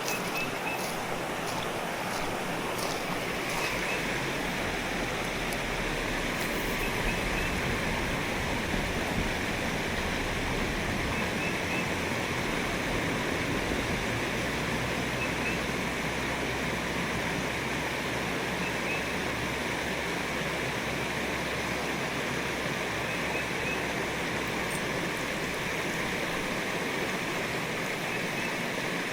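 Creek water running steadily, an even rushing noise, with a few faint clicks near the start.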